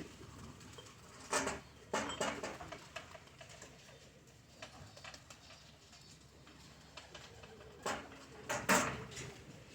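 Pigeons in a loft cooing faintly, broken by a few short, sharp rustling bursts, twice early and twice near the end.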